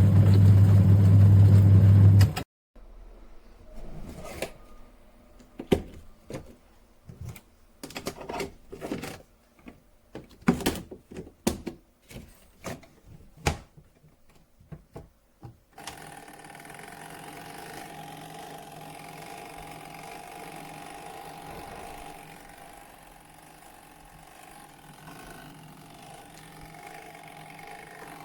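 Twin tub washing machine working: a loud steady motor hum that cuts off about two seconds in, then about twelve seconds of irregular mechanical clicks and knocks, then a quieter steady hum.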